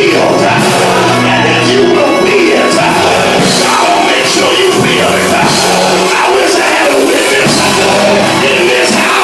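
Loud live church music: a band with held bass notes and cymbals playing, with voices singing and shouting over it.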